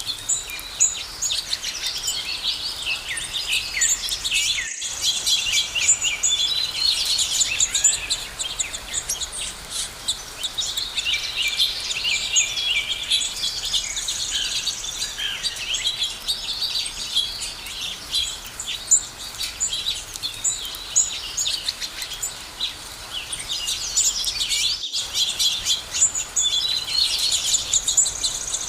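A dense chorus of many birds chirping and trilling at once, high-pitched and overlapping without pause, over a faint background hiss. The sound cuts out for an instant twice, about 5 seconds in and again near the end.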